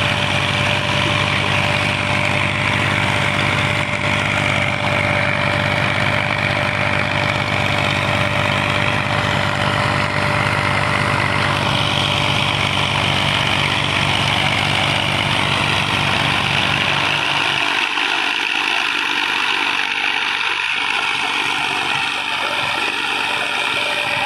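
Massey Ferguson 240 tractor's three-cylinder diesel engine running steadily; its low engine note drops out about seventeen seconds in, leaving a higher hiss.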